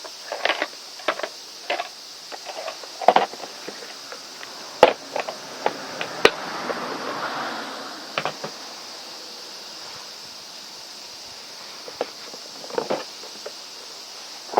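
Scattered light clicks and knocks of objects being handled, the sharpest about 3, 5 and 6 seconds in, with a soft rush swelling between about 6 and 8 seconds, over a steady high hiss.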